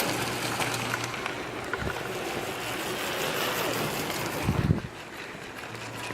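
Mini bike engines buzzing around the track, with wind buffeting the microphone; a heavy gust about four and a half seconds in is the loudest moment.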